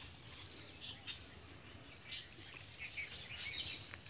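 Several birds chirping and calling in short, scattered notes, over a faint low outdoor rumble.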